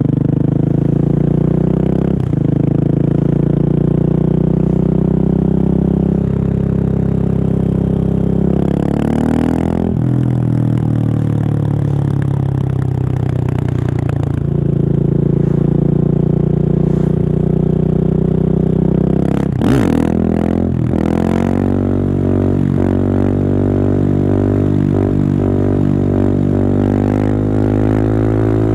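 Husqvarna 701's single-cylinder engine through an open Remus exhaust with its dB killer removed, the bike being ridden and pulling through the gears. The engine note rises steadily and drops sharply at each gear change, at about 2, 10 and 14 seconds in and again about 20 seconds in. Around that last change there are a few short sharp cracks.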